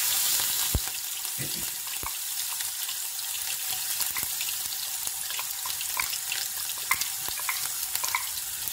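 Ginger, chilli and garlic paste sizzling in hot oil in a frying pan, with scattered sharp pops. The sizzle is loudest for the first second, and a couple of knocks come in the first two seconds.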